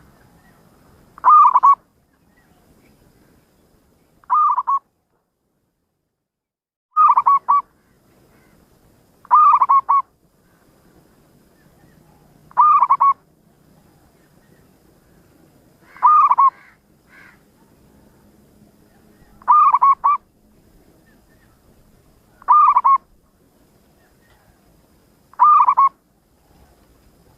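Zebra dove (perkutut) calling: nine short cooing phrases, each a quick cluster of notes lasting under half a second, repeated evenly about every three seconds.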